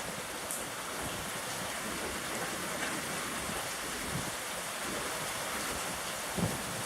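Steady rain falling, with a few light drop ticks and a short, dull low thump about six seconds in.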